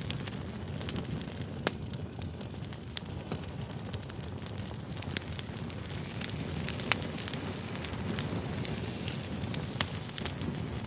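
Firewood burning: a steady low rush of flames with irregular sharp crackles and pops every second or two.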